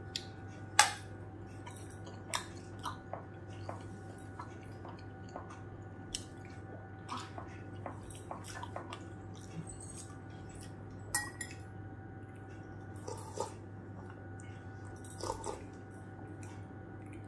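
Close-miked chewing and mouth sounds of a person eating steamed momos, with scattered short wet smacks and clicks, two of them louder about a second in and about eleven seconds in. A steady low hum runs underneath.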